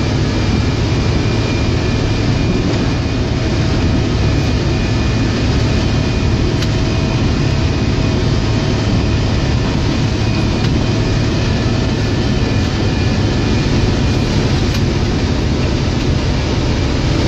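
John Deere 624J wheel loader's diesel engine running steadily under load while plowing snow, with a faint steady whine above the low engine noise.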